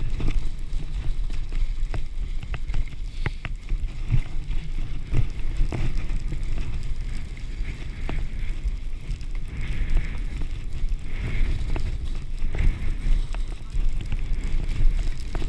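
Wind buffeting the microphone during a downhill ski run, a dense low rumble, with skis hissing and scraping over the snow and scattered sharp clicks.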